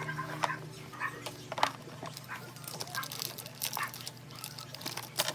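Light clicks and knocks of hard food containers and jars being handled and set down, several times a second in irregular bunches. A faint pitched whine sounds right at the start.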